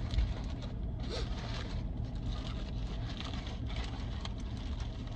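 Steady low rumble of a running car heard inside its cabin, with scattered soft rustling and scraping.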